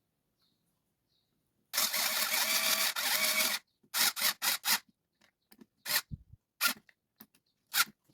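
Small screws and parts being handled while an RC car's suspension is reassembled: about two seconds of continuous rattling and rustling, then four quick scrapes and a few single clicks.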